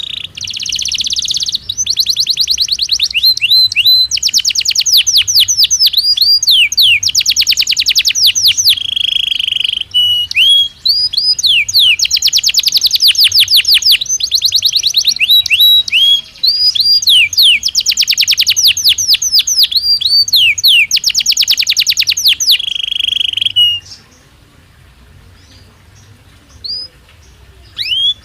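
Belgian canary singing: long, rapid trills of rising and falling notes, many a second, run together into rolling phrases with brief breaks. The song stops about 24 seconds in, a few single notes follow, and it starts again right at the end.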